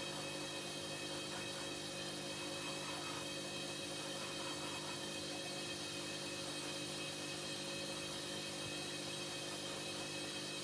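Hoover H-Wash 300 washing machine running mid-cycle with a steady machine hum made of several constant tones, with a faint high whine.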